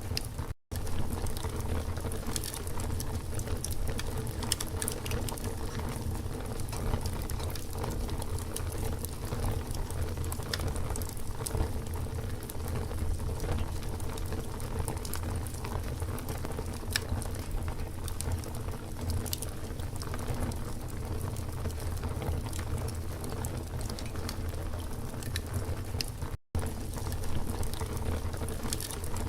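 Campfire burning with steady crackling: a dense run of small pops and snaps over a steady low rumble. The sound cuts out to silence for an instant twice, about half a second in and near the end.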